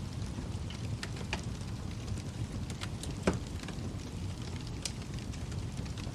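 Wood fire crackling in a fireplace: a steady low rumble of the flames with scattered sharp pops, the loudest about three seconds in.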